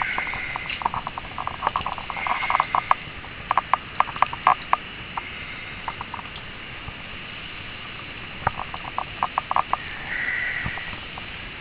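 Wet snow and slush pattering and dripping in quick, irregular runs of sharp ticks, with a few short hissing swishes.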